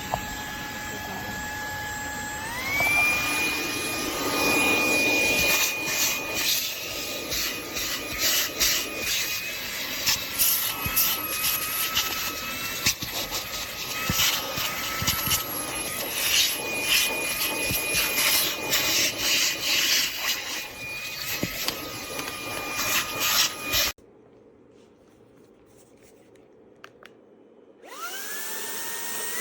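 Fanttik Slim V8 Apex handheld car vacuum running with a steady high whine. About two seconds in it steps up to a higher speed. Scraping and crackling come from the nozzle working over a surface as debris is sucked in. Near the end it cuts off abruptly, then spins back up with a rising whine.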